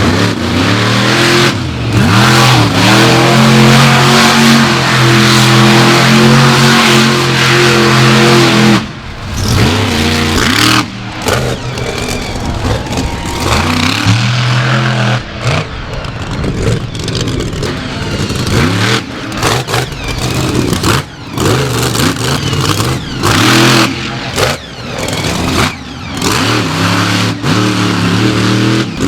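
Monster truck engines revving hard, held at high revs for several seconds, then blipping and rising and falling in pitch. Many abrupt breaks where the sound cuts between shots.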